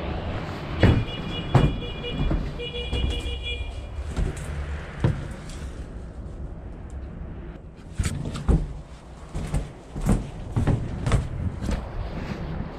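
Vehicle engine running low and steady, with irregular sharp clunks and knocks throughout and a brief high steady tone in the first few seconds.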